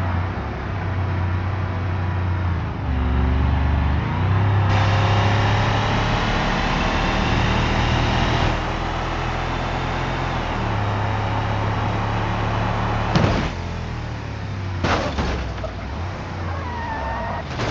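LS1 V8 engine in a Ford F-150 pickup running, its note stepping up and down several times as the revs change. Two sharp thumps come near the end.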